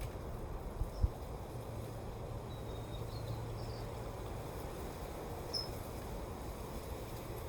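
Steady wind with a low rumble on the microphone and a couple of sharp buffets about a second in. A few faint, short high chirps come through now and then.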